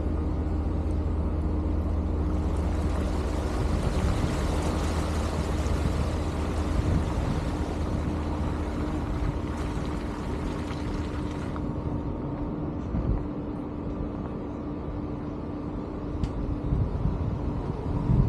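A vehicle running, heard as a steady low hum with a constant tone, with road or wind noise over it. A louder hiss comes in about two seconds in and drops away about eleven seconds in.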